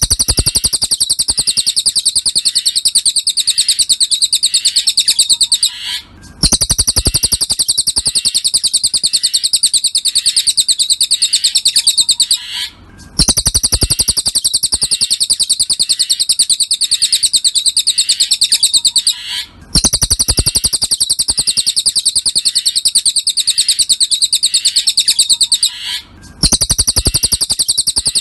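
Cililin bird song from a masteran tutor recording: a very rapid, high-pitched trill held in runs of about six seconds, each broken by a brief gap. The pattern repeats almost identically about every six and a half seconds, as in a looped recording.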